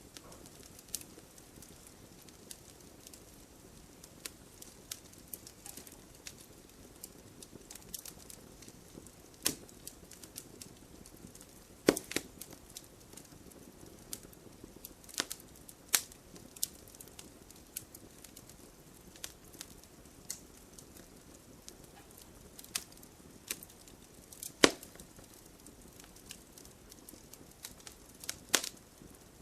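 Wood fire burning in a fireplace, crackling: scattered sharp pops and snaps over a faint low hiss, with a few louder pops spread through.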